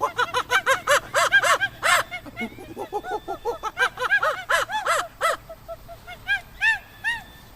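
A flock of geese honking: many short, rising-and-falling honks overlapping in a dense chorus that thins to a few scattered calls near the end.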